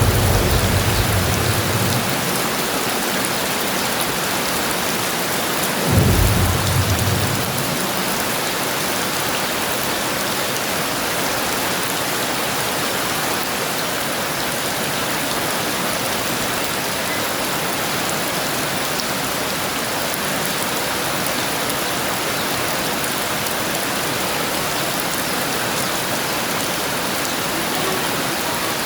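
Heavy rain falling steadily, with the tail of a thunder rumble fading away at the start and a short crack of thunder rolling briefly about six seconds in.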